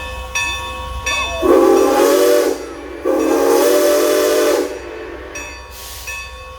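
Steam locomotive's chime whistle sounding two long blasts, the signal for a train about to move off. A bell rings in steady strokes before and after the blasts.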